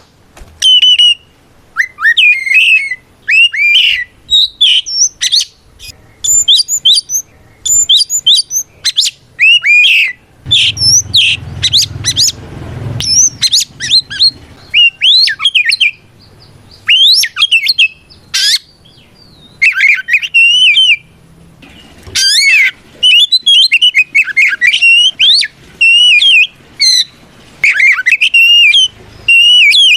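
Oriental magpie-robin (kacer) singing loudly and without let-up: a varied string of rapid whistled phrases, chirps and harsh notes, broken by a few short pauses. It is the open, challenging song that calls out a rival.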